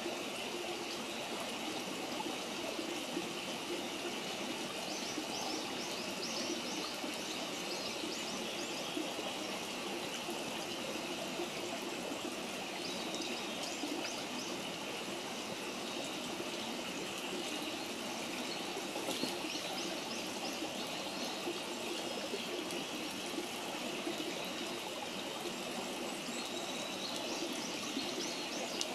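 Steady rushing of a stream, with clusters of short high ticks, crackles of a wood campfire, every few seconds.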